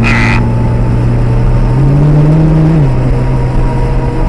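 Nissan GT-R engine pulling under acceleration, heard from inside the car. Its note steps up about two seconds in and drops back to a lower steady pitch just before three seconds.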